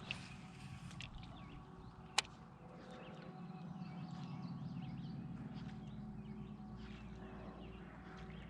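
Faint outdoor ambience on a lake: a low steady rumble of wind and water, with one sharp click about two seconds in.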